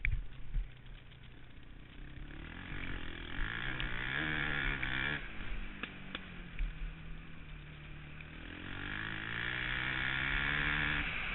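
KTM 525 XC's single-cylinder four-stroke engine under hard acceleration, heard from an onboard camera. The revs climb in a rising whine and drop sharply about five seconds in, then climb again and drop near the end. Wind rumble and jolts from the rough track sound on the microphone throughout.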